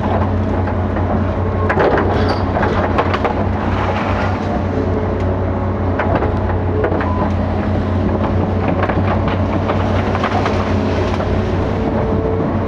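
Hitachi 5G-series excavator's diesel engine running steadily, with scattered metallic clanks from the machine at work, bunched about two to four seconds in and again near the end.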